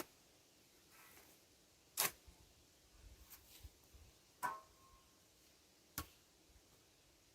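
Four sharp knocks or clicks, roughly two seconds apart, with a few fainter ticks between them; the third leaves a short ringing tone.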